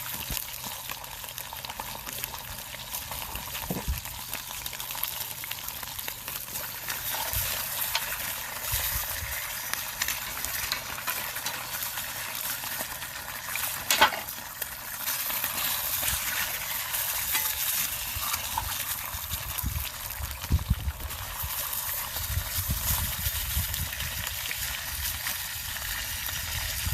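Food sizzling steadily in a very hot frying pan over a log fire, with a single sharp crack about fourteen seconds in.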